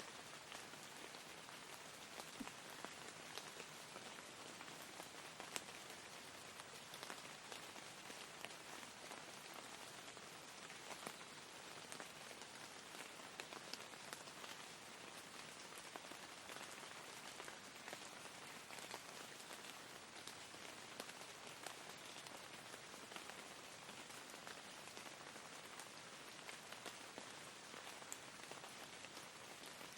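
Soft, steady rain falling on a surface, with scattered individual drops ticking.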